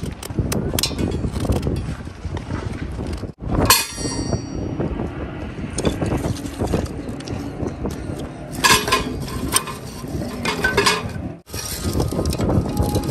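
Wind buffeting the microphone in a steady low rumble, with scattered clicks and clinks on top; the sound drops out briefly twice.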